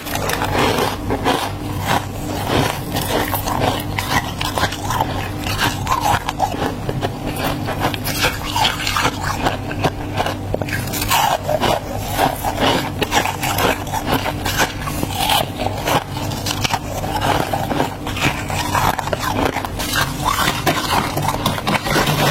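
Freezer frost being bitten and chewed close up: a dense, irregular run of crackly crunches and scrapes, over a steady low hum.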